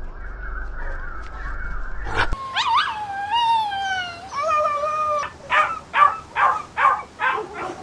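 A small puppy whining: a long high cry that rises then slowly falls, a shorter second cry, then a quick run of about seven short yips, roughly three a second.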